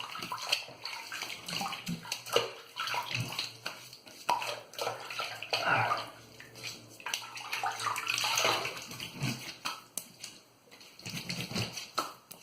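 Water splashing in irregular bursts as shaving lather is rinsed off a face by hand over a sink.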